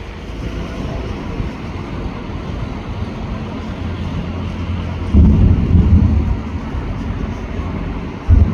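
Fireworks bursting: a steady low rumble, with a cluster of heavy booms about five seconds in and another boom near the end.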